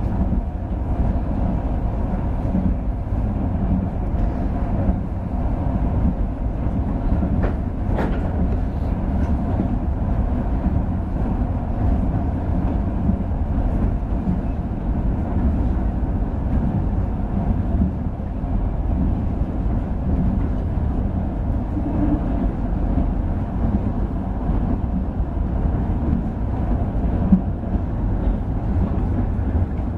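Passenger train running, heard from inside the carriage: a steady low rumble of wheels on the rails, with one sharp click about eight seconds in.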